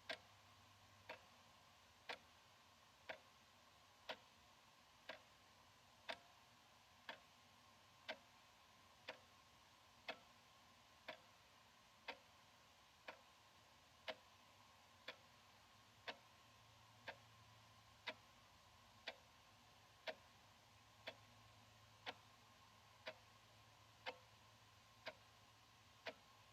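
Analog wall clock ticking about once a second, the ticks faint and crisp and alternating slightly in strength, tick-tock fashion, over a faint steady hum.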